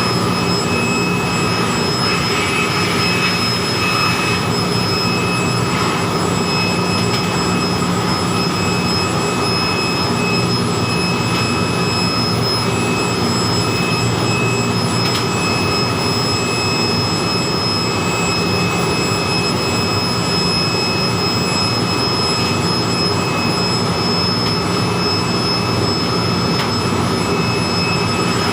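Handheld electric air blower running steadily at full speed, blowing dust out of an air-handling-unit pre-filter: a constant rush of air with a steady high motor whine over it.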